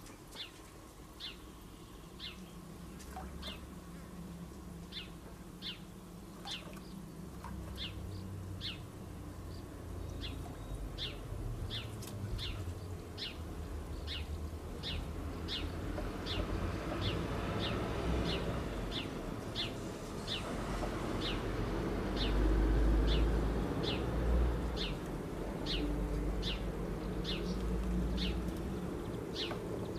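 A small songbird repeating one short, high, down-slurred chirp a little more than once a second. Under it, a low rumble grows louder from about halfway through.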